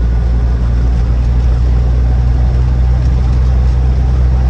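Land Rover Defender 90 Td5's five-cylinder turbodiesel engine and drivetrain droning steadily while cruising on the road, heard from inside the cabin with tyre and road noise.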